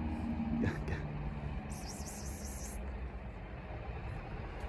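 Car engine running with a low, steady hum that fades out about a second and a half in, leaving steady background noise and a brief high hiss about two seconds in.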